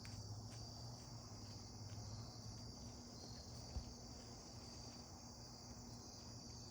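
A faint, steady chorus of crickets trilling, with one soft low thump about four seconds in.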